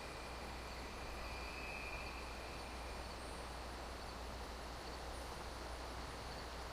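Faint steady background noise with a constant low hum, and a few faint thin high tones about one and a half to two and a half seconds in.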